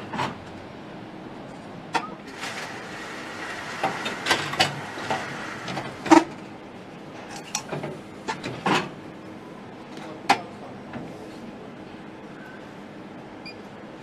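Assembly-line workshop sounds: scattered sharp metallic knocks and clanks, a brief hiss of air about two and a half seconds in, over a faint steady machinery hum.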